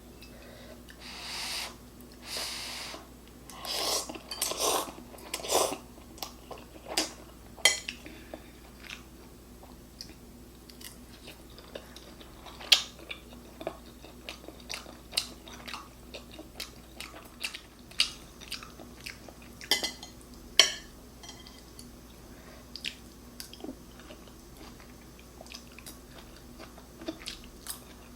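A person eating ramen and fried bacon close to the microphone: chewing and crunching, with many sharp clicks scattered throughout and two longer noisy sounds a couple of seconds in.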